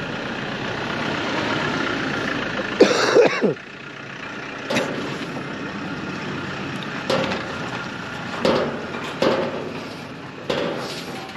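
A motor vehicle running on the road, with a steady engine and road hum. About three seconds in there is one loud burst, and later several short knocks.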